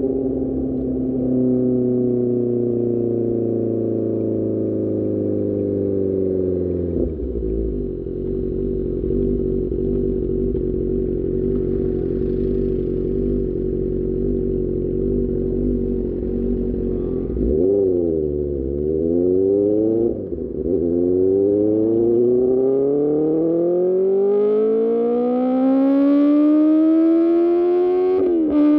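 QJMotor SRK600 motorcycle's inline-four engine through an Austin Racing exhaust. The engine note falls as the bike slows, holds steady for about ten seconds, and gives two quick throttle blips. It then rises in pitch as the bike accelerates, with a gear change near the end.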